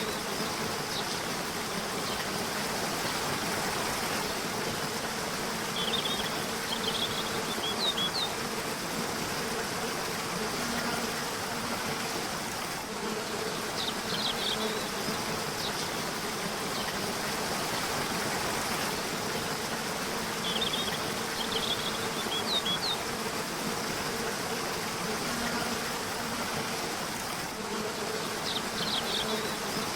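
Steady rush of flowing river water, with a low buzzing hum that comes and goes. Short groups of bird chirps and trills recur about every seven to eight seconds.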